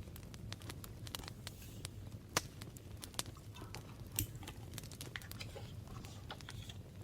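Hands working with paper journal materials: scattered light taps and clicks with brief papery rustles, two sharper taps standing out, over a faint steady low hum.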